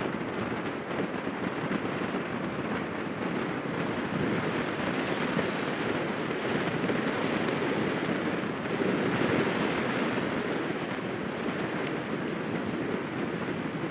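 Strong wind buffeting the microphone: a steady rushing noise with no horn heard through it.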